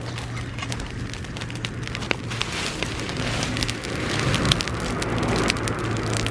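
Bonfire of dry grass burning, with many sharp crackles and pops over a rushing hiss that swells to its loudest around the middle as the flames flare up.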